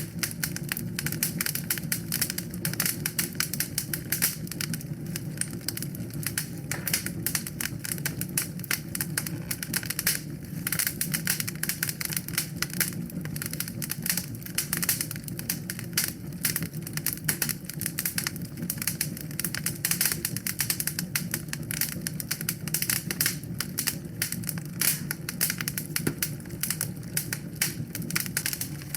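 Wood fire crackling steadily in a fireplace, with dense irregular pops and snaps over a low steady rumble of the flames.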